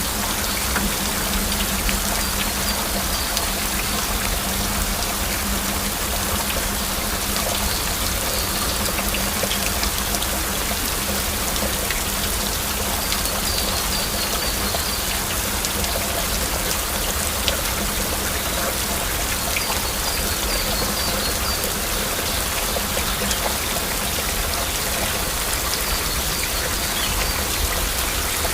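Steady heavy rain, with many individual drops ticking sharply through the constant hiss.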